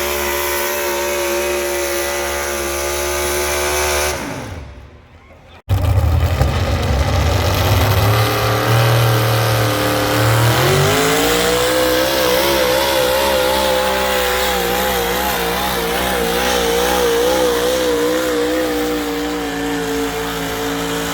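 Pulling tractor's engine running hard under load. About four seconds in it fades away, then cuts back in loud on another run. Its pitch climbs a few seconds later and then wavers up and down as the engine labours.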